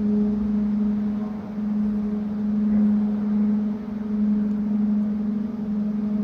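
Stoosbahn funicular car travelling, a steady mechanical hum with one constant low tone whose loudness swells and dips slightly.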